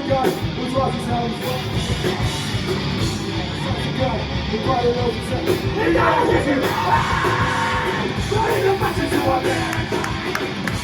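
A live heavy rock band playing with distorted guitars and drums under shouted vocals that grow more prominent about halfway through.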